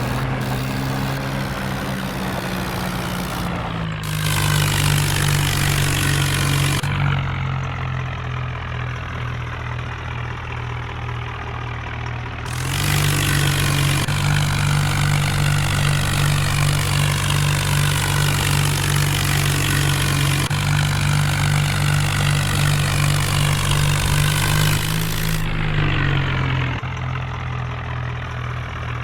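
Tractor diesel engine running steadily, getting louder from about 4 to 7 seconds in and again from about 13 to 26 seconds in, then settling back.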